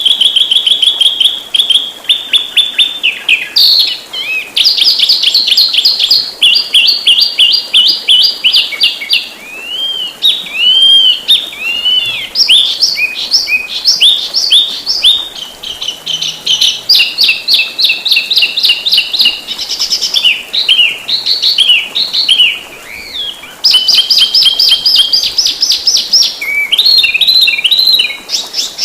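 Songbird singing a fast, dense, unbroken run of rapid repeated chirps and trills, with a few arched, swooping whistles about ten seconds in. It is a 'speed rapat' (fast, tightly packed) fill-in song of the kind played as a masteran recording to tutor cage birds.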